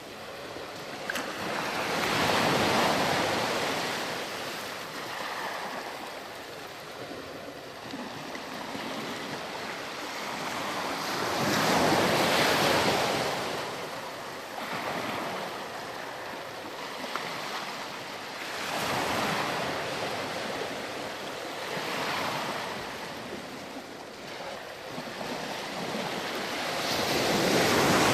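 Ocean waves breaking and washing up a sandy beach, the surf swelling and falling away every few seconds, with louder breakers near the start, midway and at the end.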